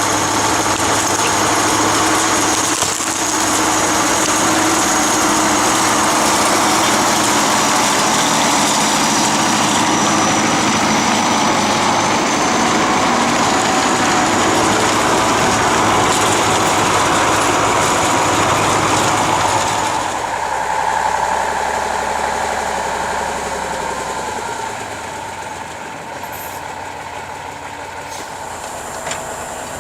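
An engine running steadily at high speed, then easing off to a lower, quieter run about twenty seconds in.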